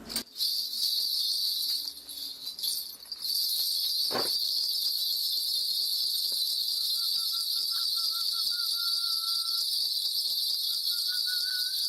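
Shaman's ritual bells shaken in a steady, continuous jingle, as used to call the spirits for a divination. There is a single knock about four seconds in, and in the second half a faint, wavering, whistle-like tone.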